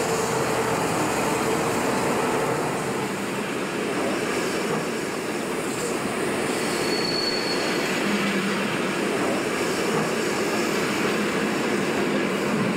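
Passenger train hauled by a DB class 110 electric locomotive rolling through the station: steady wheel-on-rail running noise as the coaches pass, with a brief high wheel squeal about seven seconds in.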